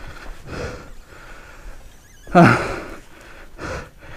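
A man breathing hard in short puffs, with one louder voiced sigh that falls in pitch about two and a half seconds in.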